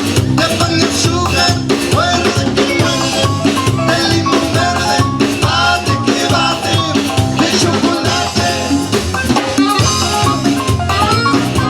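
Tejano band playing live: an instrumental passage with a drum kit and bass keeping a steady dance beat under a melody line, without singing.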